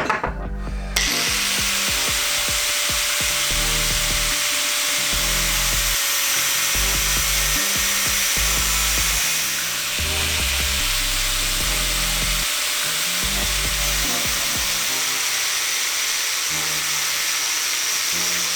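A power tool running steadily with a loud, high hiss, starting about a second in, over background music with a bass line.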